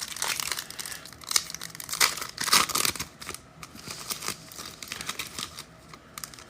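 A wrapper on an Optic retail football card pack is being crinkled and torn open with some struggle. The pack resists opening. The crackling and tearing are busiest for the first three seconds or so, then turn to lighter rustling.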